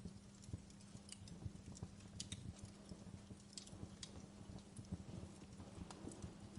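Wood fire burning in a fireplace, crackling faintly with irregular sharp pops and snaps over a low rumble.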